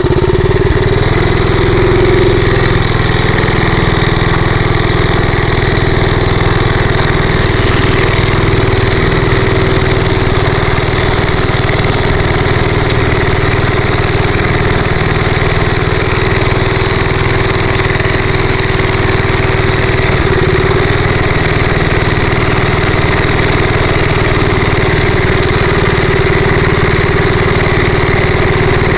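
Rupp Bonanza minibike's small gas engine running under way at a steady, even pitch, with a brief dip about twenty seconds in.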